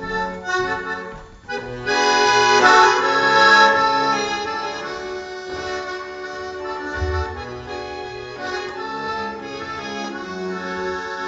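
Accordion playing the instrumental introduction to a song: a few short notes, then full, held chords that come in louder about two seconds in.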